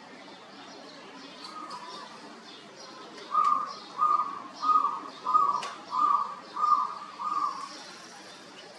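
A bird calling a run of seven evenly spaced, mid-pitched notes, a little over half a second apart, starting about three seconds in, with faint high chirps of small birds around it.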